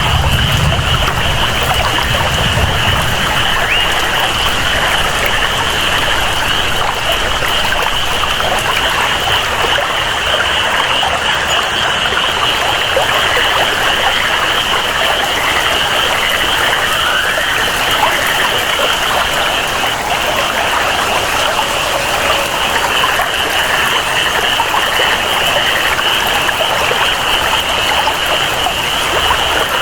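Steady rainforest ambience of rain and flowing water, with a continuous high-pitched chorus of jungle creatures above it.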